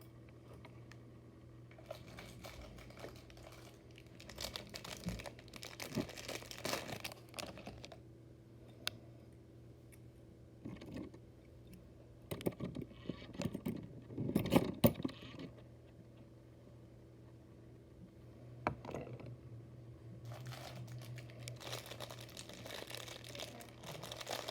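Small diecast metal motorcycle models being handled and set down: light clinks and rattles in several bursts, loudest about fourteen seconds in, over a steady low hum.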